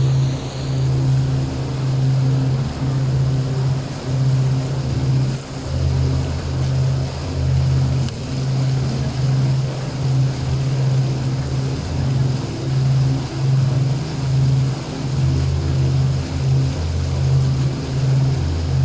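Boat engine running steadily while under way: a low hum that swells and dips about once a second, over water and wind noise.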